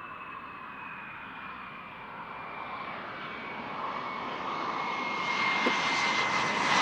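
Jet aircraft engine, a high whine slowly falling in pitch over a rushing noise that grows steadily louder, loudest near the end.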